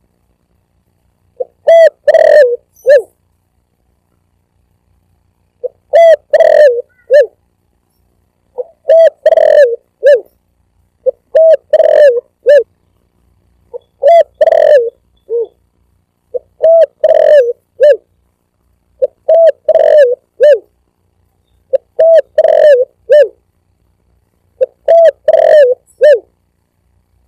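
Spotted dove (tekukur) cooing: a recorded lure call of short phrases of several low, pitched coos, repeated nine times at a steady pace of about one phrase every two and a half seconds, with silence between phrases.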